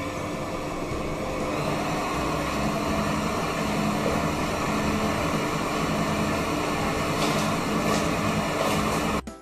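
Kenwood KMM710 stand mixer's 1200 W motor running steadily with a slow rhythmic pulse under its hum, the planetary beater churning egg, oil and salt, the start of pasta dough. It gets a little louder after the first second or two and cuts off abruptly near the end.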